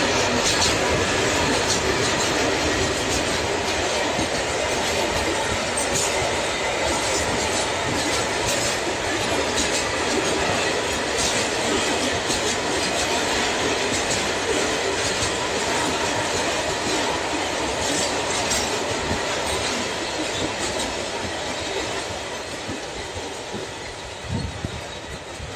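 Freight train wagons rolling past: a steady noise of wheels on rails with irregular clicks over the rail joints, fading away over the last few seconds.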